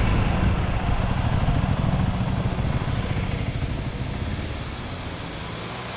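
Honda CRF300L single-cylinder dirt bike engine running steadily under way, with rushing noise from the ride; the sound fades gradually over the last two seconds.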